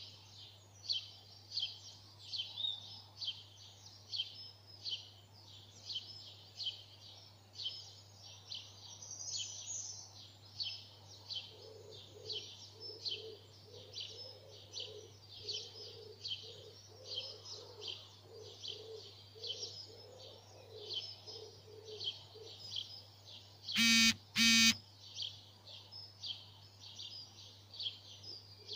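Dawn chorus: a bird gives a steady run of short, high chirps, about two a second, with a lower repeated note joining in for about ten seconds midway. About 24 seconds in, two loud, brief, harsh sounds stand out, and a low steady hum lies underneath.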